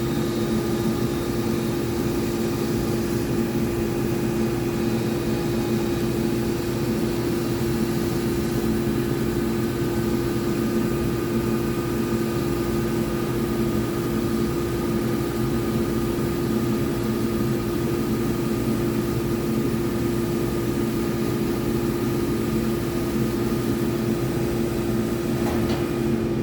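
Gildemeister CTX400-S2 CNC lathe running under power through a machining cycle: a steady hum with a constant tone that does not change.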